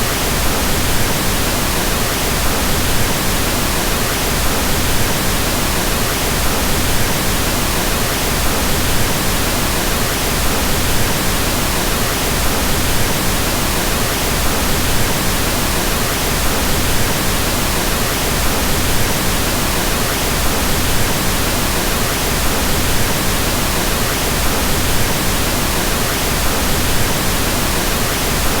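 Steady, unchanging pink noise: an even hiss with more weight in the low end, softer than white noise.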